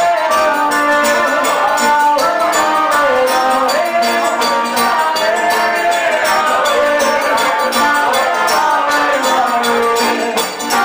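Live forró band playing: an accordion melody over guitar, with a steady, quick beat of zabumba drum and hand percussion.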